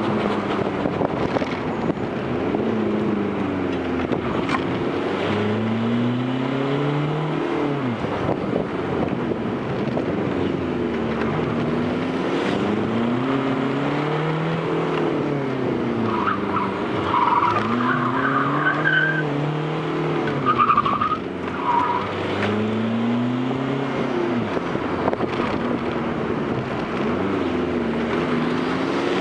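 Fiat Grande Punto's 1.9 Multijet turbodiesel four-cylinder engine being driven hard, its pitch climbing and falling again and again every few seconds as the revs build and drop. A few short high squeals come about two-thirds of the way through.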